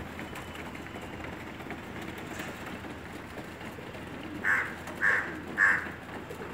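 A crow cawing three times in quick succession, about half a second apart, over a steady outdoor background hum.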